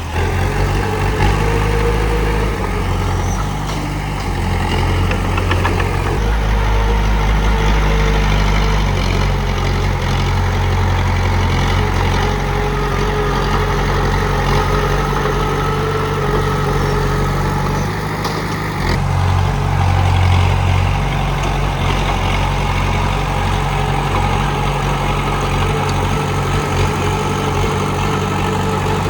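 Komatsu D31P bulldozer's diesel engine running steadily as the machine works, its low drone rising and falling with the load, with an abrupt change in tone about two-thirds of the way through.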